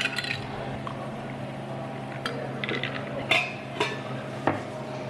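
Utensils and dishes clinking, about six sharp clinks spread unevenly, over a steady low hum.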